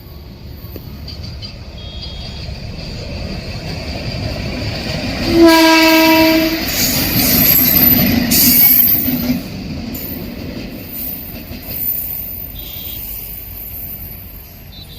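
An Indian express train passing at high speed: the noise builds as it approaches, the locomotive gives one horn blast of about a second on a single steady note, then the coaches rush past loudly with wheel and rail noise before it fades away.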